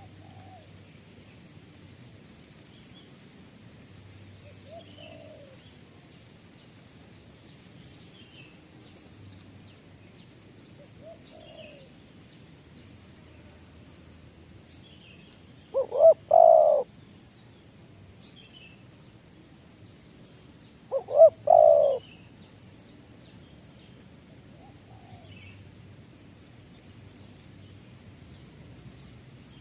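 Birds calling. A faint low call repeats every few seconds over faint high chirps. Two much louder calls come about five seconds apart, each a short note followed by a longer one.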